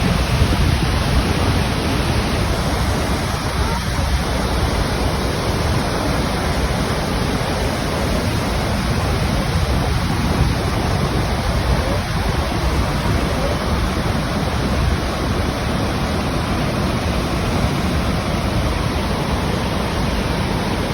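The Iguaçu Falls: a steady, loud rush of heavily falling water, heaviest in the low range, with no breaks.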